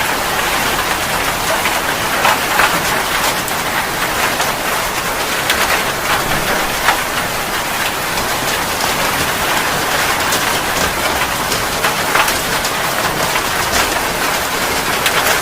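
Steady rain falling on a surface, a dense even hiss with many distinct drop splashes and pattering ticks.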